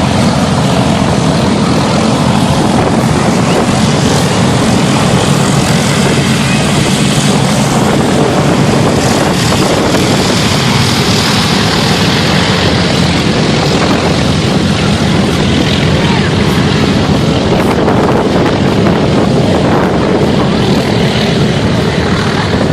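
Aircraft engine running loud and steady, a dense low rumble with a wide hiss over it.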